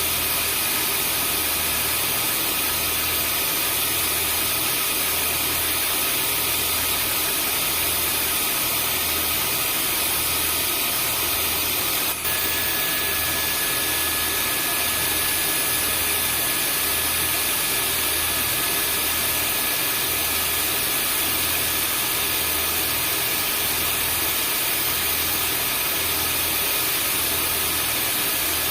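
Vacuum cleaner running steadily: a constant rushing hiss with a faint high motor whine and a gentle low throb. About twelve seconds in the sound drops out for an instant and resumes with a slightly changed whine.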